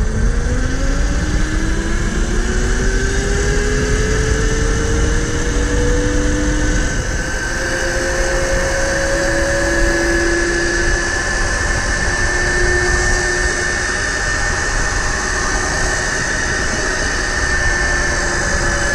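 Electric dirt bike's motor whining as it accelerates in tour mode, the whine rising in pitch over the first several seconds, then holding steady at speed. A loud low rumble runs underneath.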